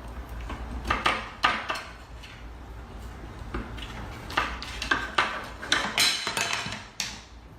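Irregular clattering and knocking of small hard objects, about a dozen sharp strokes, coming closer together in the second half.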